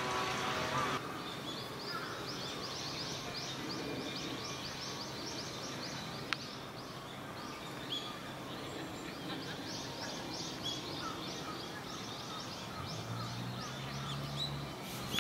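Birds chirping busily: a rapid stream of short, high calls that slur downward, over a steady outdoor background.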